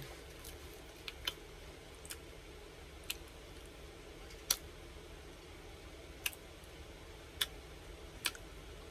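Quiet eating sounds: a handful of sharp, irregular mouth clicks and smacks from chewing, over a faint steady hum.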